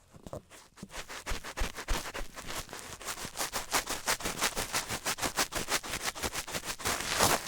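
Rapid close-miked ASMR tapping and scratching, several light strokes a second, growing quicker after about three seconds.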